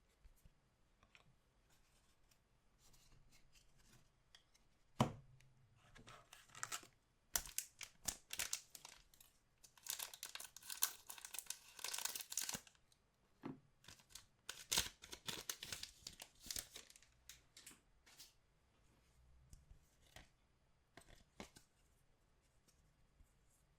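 Anime trading-card pack wrapper being torn open and crinkled by hand: a sharp click about five seconds in, then a run of tearing and rustling, densest around the middle, thinning out to a few light handling sounds near the end.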